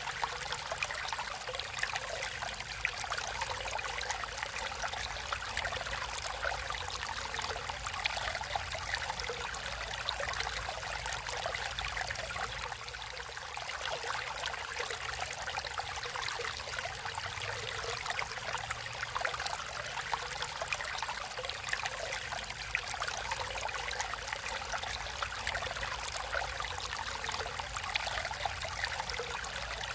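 Water flowing naturally in a stream, a steady rush dense with small trickling splashes.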